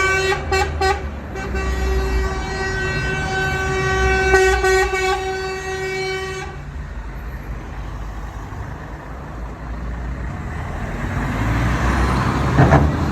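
Truck horn: four quick toots, then one long blast of about five seconds, over the low rumble of truck engines. Near the end a vehicle passes close and its engine noise swells.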